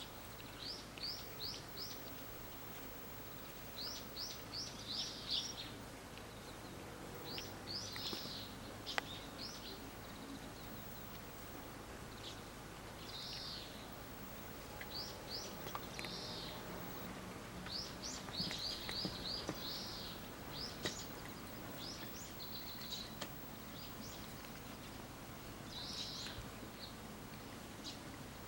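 Small birds chirping: short runs of quick, high chirps every few seconds over a steady background hiss.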